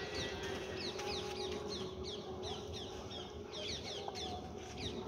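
Birds chirping busily: many short, quick falling chirps overlapping one another, with a faint steady hum underneath.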